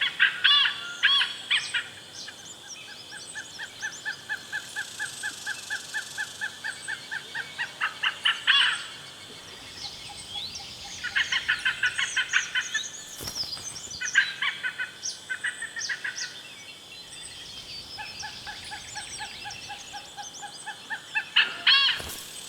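Malabar pied hornbills calling in runs of quick, repeated notes, several bouts broken by short pauses, the loudest at the start and near the end.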